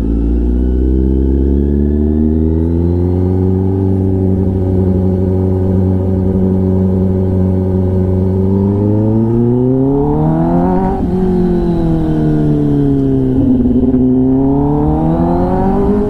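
Kawasaki ZX-10R's inline-four through an SC-Project exhaust, under way: engine speed climbs over the first few seconds, holds steady, rises to a peak about eleven seconds in, drops back and climbs again near the end.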